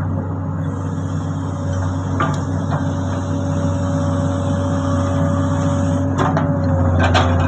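Komatsu excavator's diesel engine running steadily, with a constant whine over it. A few short knocks and clatters come about two seconds in and again around six seconds in.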